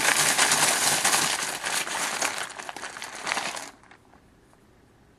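Many small hard pieces rattling and clattering together as they are shaken for a random draw. The clatter dies down and stops abruptly almost four seconds in.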